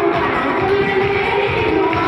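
Church worship music playing, with the voices of a congregation mixed in.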